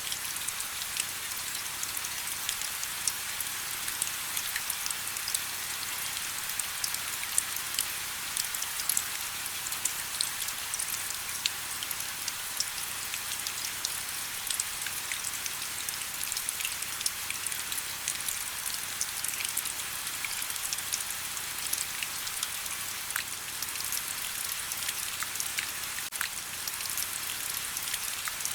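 Steady rain, with many small drops ticking on surfaces.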